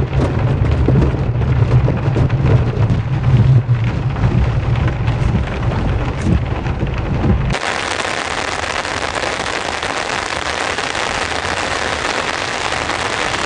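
Heavy rain falling. For the first half a steady low hum sits under the rain, then about halfway through the sound changes abruptly to an even, brighter hiss of downpour with no hum.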